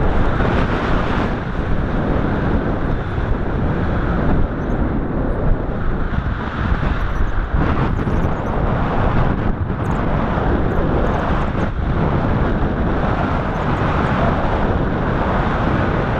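Strong wind buffeting the camera microphone: a loud, steady rush of noise that rises and falls slightly with gusts.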